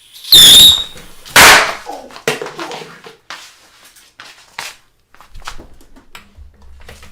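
Firework going off in a small room: two extremely loud bangs about a second apart, the first with a brief shrill whistle, followed by scattered smaller pops and knocks.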